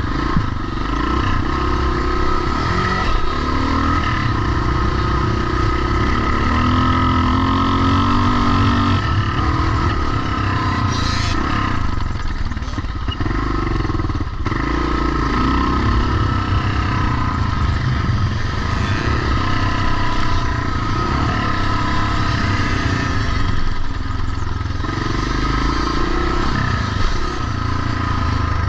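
Vintage pre-1990 motocross bikes running on the track, engines revving up and falling back over and over as they ride, with a steady higher whine underneath.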